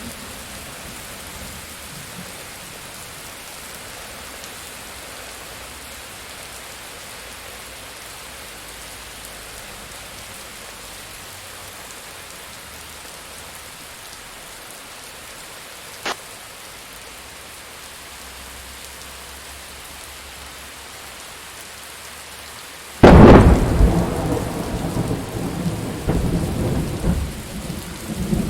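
Steady rain hissing. Past the middle comes one short sharp crack, and near the end a sudden loud thunderclap that goes on rumbling.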